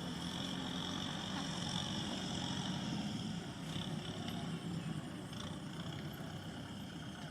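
Kubota M6040SU tractor's diesel engine running steadily at a distance, easing off slightly near the end, with a steady high-pitched hum above it.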